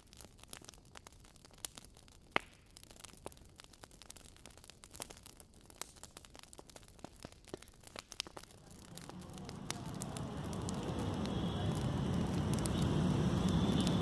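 Faint scattered crackles and clicks. About nine seconds in, a rumbling outdoor noise fades in and grows steadily louder, heaviest in the low end.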